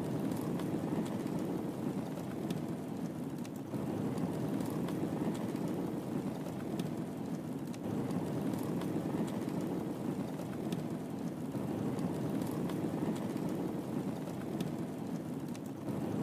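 Wood fire burning in a fireplace: a steady low rushing with scattered sharp crackles and pops at irregular moments.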